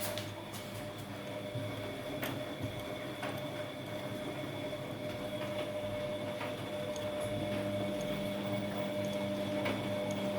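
Front-loading washing machine running, a steady motor hum with a few faint clicks scattered through it.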